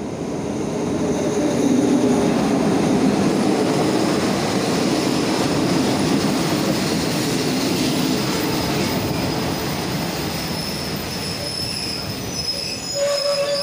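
State Railway of Thailand passenger train running into the station along the platform, its coaches' wheels rumbling and clattering on the rails. A thin, high squeal from the wheels grows as the train slows almost to a stop, loudest near the end.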